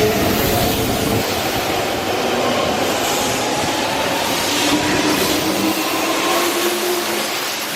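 Hanshin 5000 series 'Jet Car' electric commuter train running, a steady, loud rumble and rattle of wheels on rail with a faint whine that slowly rises in pitch.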